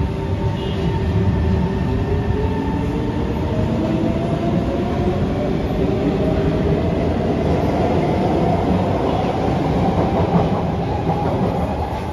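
Kawasaki–Kinki Sharyo C151 electric train accelerating away from a station: its traction motors whine in several tones that rise steadily in pitch, over the rumble and clatter of wheels on the rails.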